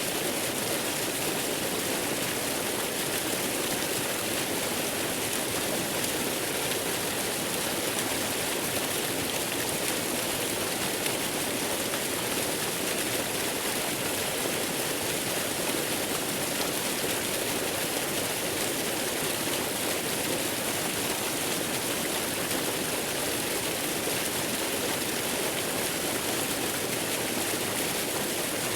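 Waterfall water rushing in a steady, unbroken hiss, with no changes or separate events.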